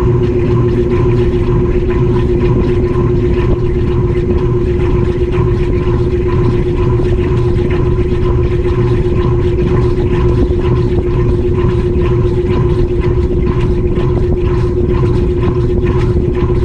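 GE GTW220ACKWW top-load washing machine in its high-speed spin, heard from inside the drum: a steady motor whine over a constant low rumble, with a faint regular pulsing.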